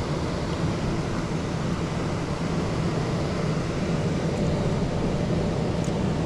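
Steady low drone of a Carrier heat pump package unit's blower running, while the unit's condenser section stays off: the no-cooling fault being chased.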